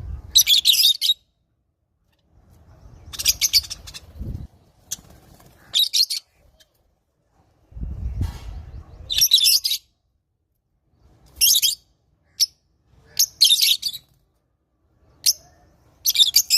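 Lovebirds calling in short, shrill bursts of chattering screeches, about eight bursts with pauses between them. A low rumble runs under some of the pauses.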